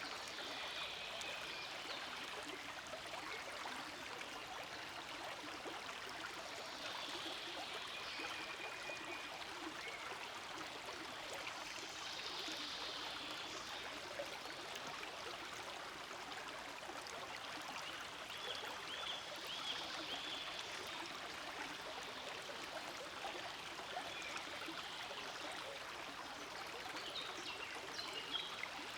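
Forest stream flowing steadily over rocks, a continuous rushing and gurgling water sound. Short high chirps come through now and then.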